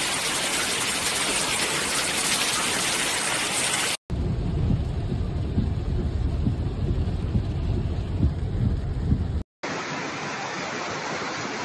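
Heavy rain pouring down as a steady hiss. About four seconds in it cuts to a deep, rumbling rush heard inside a car, then near the end to another steady rush of downpour.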